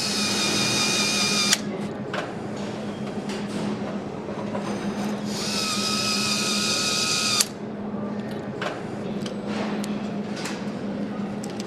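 A power tool whining twice in short runs, each stopping with a click, over a steady machine hum and scattered clicks and clanks.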